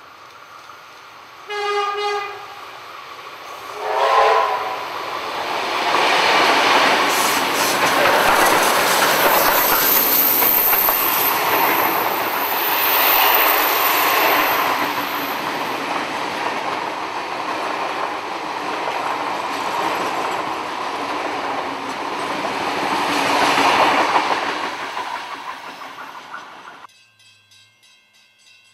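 Diesel-hauled train with steam locomotive 6029 and carriages in tow: two short horn blasts, then the train clattering past for about twenty seconds. The sound cuts off suddenly near the end.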